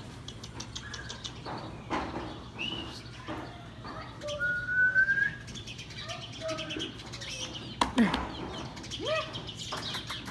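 Bird chirps and short whistled calls, one clear rising note about halfway through, with a few scattered knocks.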